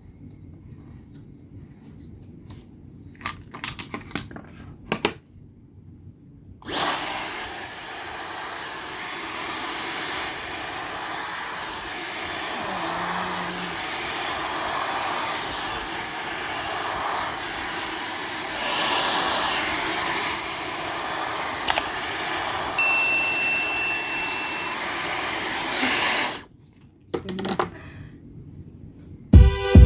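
Dyson Supersonic hair dryer switched on about seven seconds in and blowing with a steady rush of air for about twenty seconds, then cut off abruptly; faint handling clicks before it starts.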